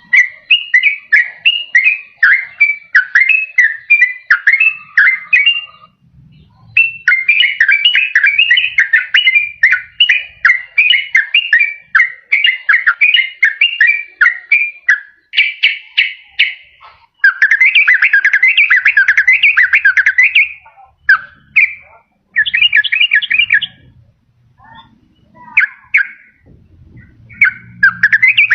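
Yellow-vented bulbul (trucukan) song: rapid, bubbling chattering phrases delivered in long, dense runs, broken by a few short pauses. This is the continuous rolling song used as a lure call.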